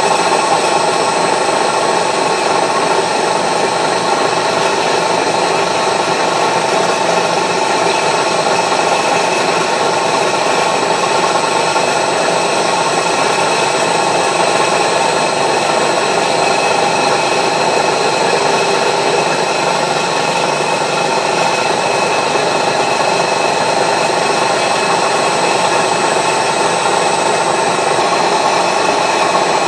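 Milling machine running with a 16 mm carbide cutter taking a light 20-thou pass across a steel wood-chipper blade: a steady machining noise with a thin, constant high whine.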